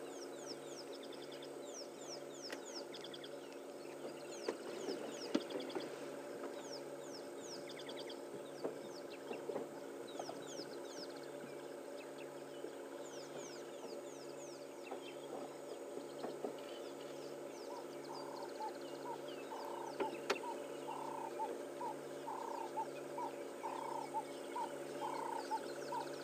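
Wild birds calling in the bush: bursts of short, high, falling chirps through the first half, then, about two-thirds of the way in, a series of lower notes repeated roughly once a second. A steady low hum sits beneath the calls.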